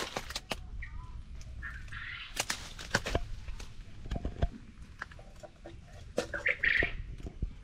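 Birds chirping and calling, twice in short bursts, over a scatter of irregular sharp clicks and taps.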